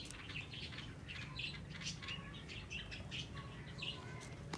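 A flock of small birds chirping, many short high chirps overlapping one another without pause.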